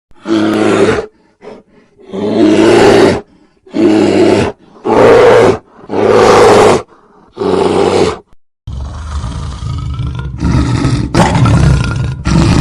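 An animal calling loudly six times, each call under a second long, followed about two thirds through by a steady low rumble.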